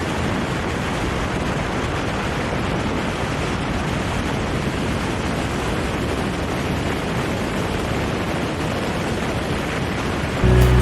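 Steady, even rushing noise with no engine note or rhythm in it, such as wind or air rushing past a microphone. Music starts just before the end.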